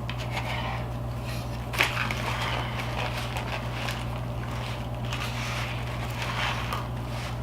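Crackling and crunching of crispy fried chicken sandwiches being cut open, with a sharp click about two seconds in. A steady low hum runs underneath.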